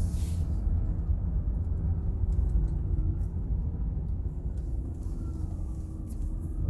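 Van's engine running steadily, a low rumble with a faint hum.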